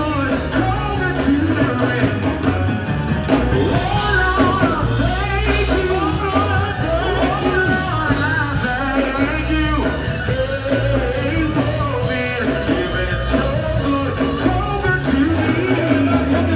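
Live gospel group performing with a band: singing over full band accompaniment with a steady beat.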